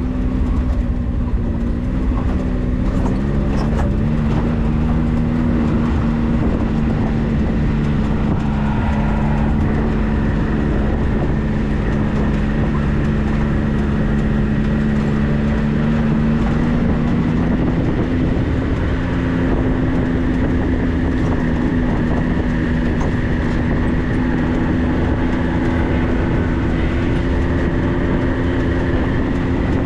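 A vehicle engine running steadily, its pitch stepping up slightly a little past halfway.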